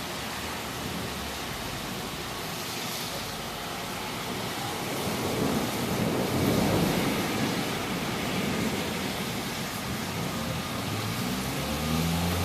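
Steady rain during a thunderstorm, heard as an even hiss. A low rumble swells and fades through the middle, and a low engine-like hum comes in near the end.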